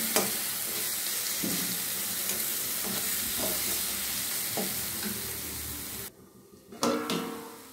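Onion-tomato masala with ground spices sizzling in a kadhai while a spatula stirs it, with light scrapes and taps against the pan. The sizzle cuts off abruptly about six seconds in, and a single ringing metal clank follows.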